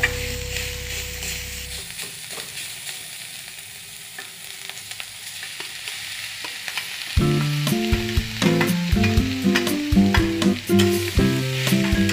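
Food frying in a kadai (wok), sizzling while a metal spatula stirs and scrapes through onions and mashed potato, with scattered clicks of the spatula on the pan. Background music plays at the start, drops out after about two seconds, and comes back about seven seconds in.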